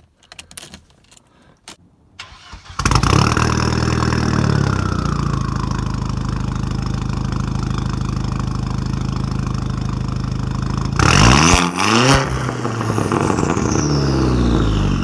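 Audi A4 B6 1.8T turbocharged four-cylinder with a straight-piped 2.5-inch exhaust starting up about three seconds in, after a few faint clicks: it catches with a brief flare, then settles to a loud steady idle. Near the end it is revved twice in quick succession and drops back to idle.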